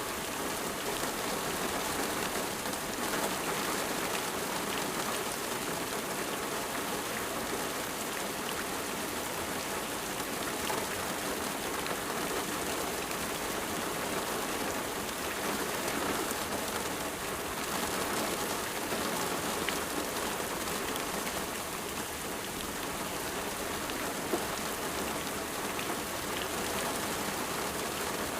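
Steady rain falling on a surface, an even hiss with fine drop ticks throughout.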